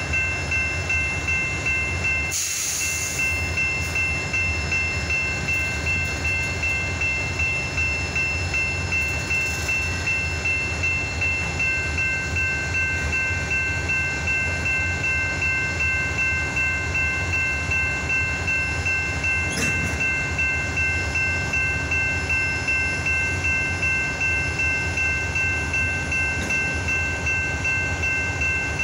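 EMD GP-series diesel locomotives and their freight train running past: a low, steady rumble with a regular throb a few times a second and a few steady high whines over it. There is a short hiss about two seconds in and a single click near the middle.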